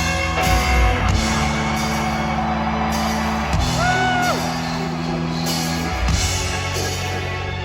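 Live rock band playing: sustained bass and guitar notes change every couple of seconds over washing cymbals. About four seconds in, a short pitched note slides up and back down.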